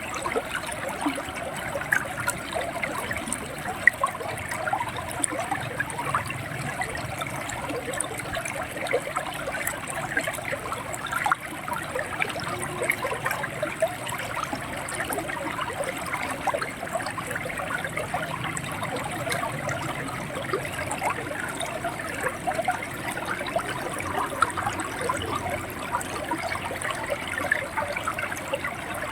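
Shallow river water flowing and gurgling steadily over stones, with many small splashes.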